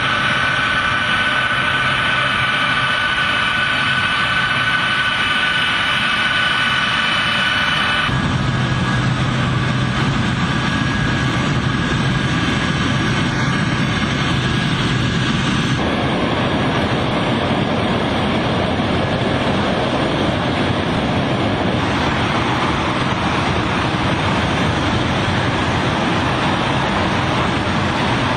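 Steady aircraft engine noise with a high whine over the first several seconds. The sound changes abruptly twice, at about a third and about halfway through.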